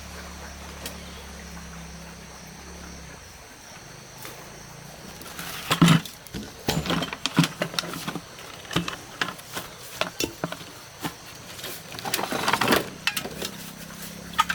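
A small motor hums steadily for about three seconds, then stops; from about five seconds in, a busy run of irregular knocks and sharp rustling noises follows.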